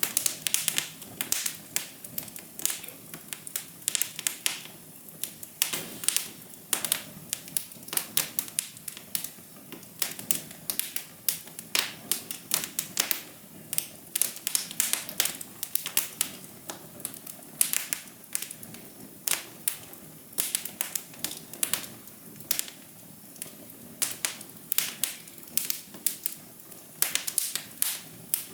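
Fire crackling: a constant scatter of irregular sharp pops and snaps, several a second, over a soft steady hiss.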